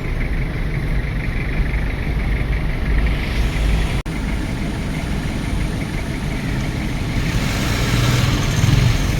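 A car's engine and road noise heard from inside the cabin while creeping in stop-and-go traffic: a steady low rumble, with a hiss that builds through the second half. There is a brief gap in the sound about four seconds in.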